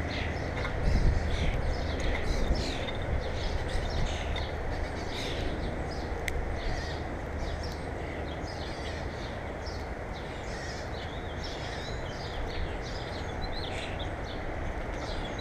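Small birds chirping and twittering in quick short calls throughout, over a steady low rumble.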